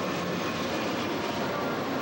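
Santa Fe diesel freight locomotives passing close at speed: a steady, loud rush of engine and wheel-on-rail noise.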